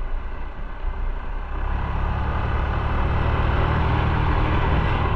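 Motorcycle engine running under way with wind noise, getting louder about a second and a half in and holding a steady drone.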